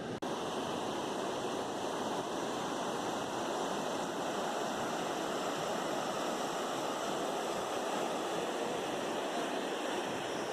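Waterfall's rushing water: a steady, even rush of heavy falling and flowing water.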